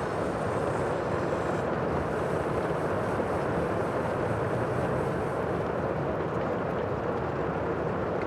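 Sea ambience: a steady, even rush of water and wind, with no distinct wave surges.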